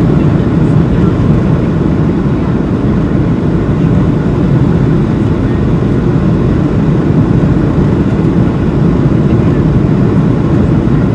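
Steady rush of engine and airflow noise inside the cabin of a Boeing 737-700 airliner, a deep, even roar with no changes in pitch or level.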